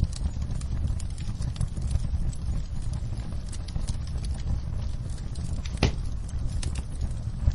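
Wood fire crackling in a fireplace: scattered sharp pops and snaps, one louder pop near six seconds in, over a steady low rumble.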